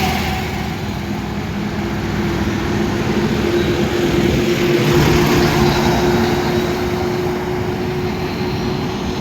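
Steady highway vehicle noise: a continuous engine drone with tyre and road rumble and wind.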